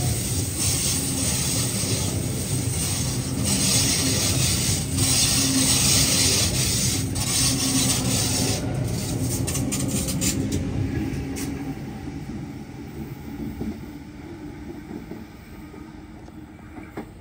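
Sydney Trains double-deck electric train pulling out alongside the platform: a loud steady rumble of wheels on rail with a low hum and crackling rail noise. The noise fades away over the last several seconds as the train leaves.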